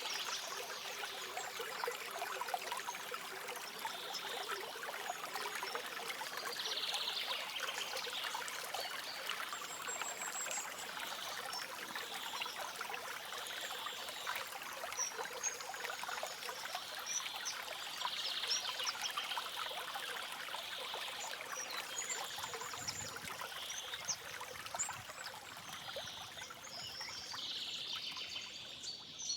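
A stream flowing steadily, with small birds chirping at intervals through the water sound.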